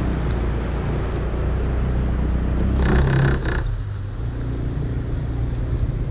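A motor vehicle's engine running steadily on a flooded street, under a steady hiss of water and rain. A brief louder rush comes about three seconds in.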